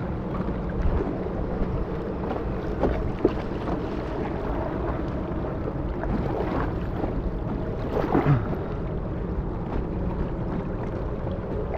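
Inflatable kayak paddled down a river: water rushing and splashing around the hull, with a few irregular paddle splashes over a steady rumble of wind on the microphone.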